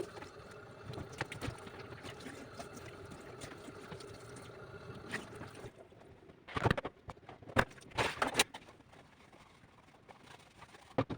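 A steady hiss with a faint hum, then a burst of loud knocks and clatters of household objects about six to eight seconds in, and a couple of sharp clicks near the end.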